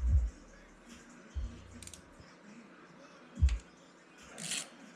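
Light clicks and knocks from hand tools and plastic motorcycle fairing panels being worked loose, with a few low thumps and a brief scrape near the end.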